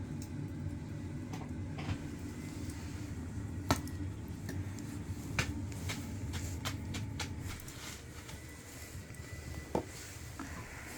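Firewood burning in the firebox under a cast-iron cauldron: scattered sharp crackles and pops over a low, steady rumble of the fire, the rumble easing off about eight seconds in.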